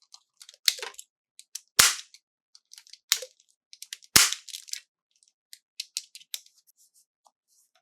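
Toy packaging being opened: a string of small clicks and crackles, with two loud, sharp snaps about two seconds apart near the middle.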